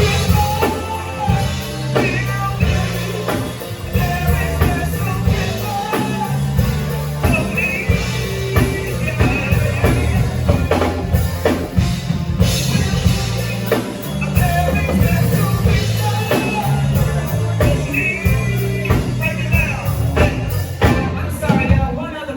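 Band music with a drum kit keeping a steady beat under a bass line, and voices singing over it.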